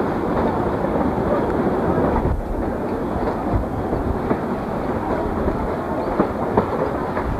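Excursion train's passenger car rolling along the track, heard from aboard: a steady rumble of wheels on rails with occasional sharp clicks.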